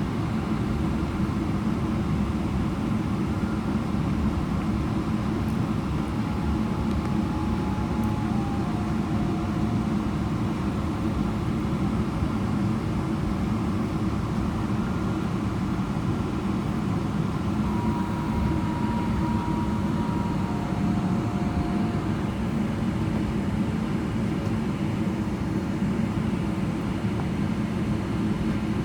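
Steady cabin noise of a Boeing 777-300ER taxiing, its GE90 engines at idle thrust: an even low rumble and hiss. A few faint, brief steady tones come and go over it.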